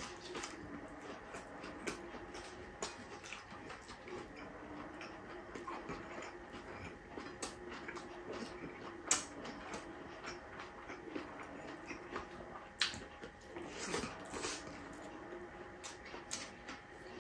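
Close-up eating sounds of food eaten by hand: chewing and wet lip smacks, heard as scattered clicks, a few louder ones near the middle and toward the end. A faint, slowly wavering low hum runs underneath.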